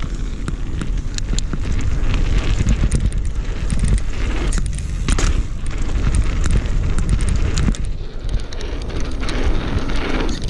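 Downhill mountain bike descending a rough trail: tyres rolling over dirt and stones with frequent knocks and rattles from the bike, over a steady rumble of wind on the microphone.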